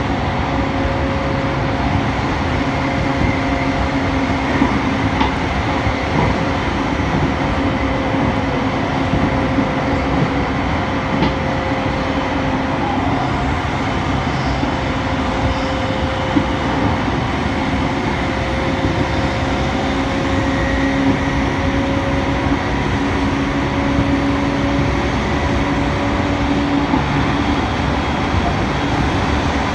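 JR East E231 series electric commuter train running at a steady speed, heard from inside the car: a continuous rumble of wheels on rail with steady motor humming tones.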